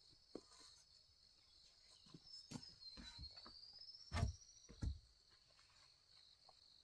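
Insects chirring steadily, with a rising whistled call partway through and scattered faint knocks, two louder thuds about four and five seconds in.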